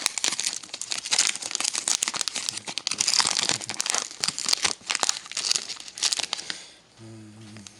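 Hockey card pack wrapper being ripped open and crinkled in the hands, a dense run of crackling that stops about seven seconds in.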